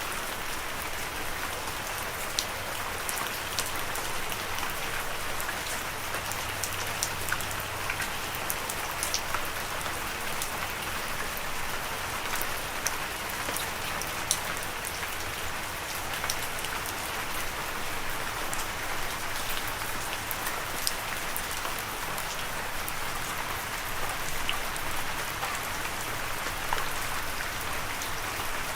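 Steady rain falling, with a dense hiss and many scattered sharp drop ticks.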